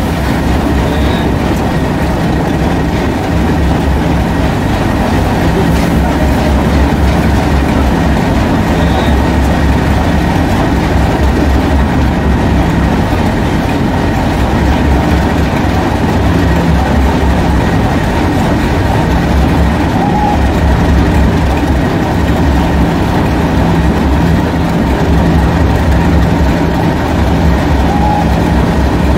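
Train of passenger coaches rolling slowly out past the platform, wheels clicking over the rail joints, over a steady low rumble.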